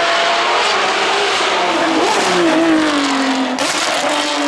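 Racing car engine running hard. Its note falls through the middle, and a brief harsh noise comes near the end.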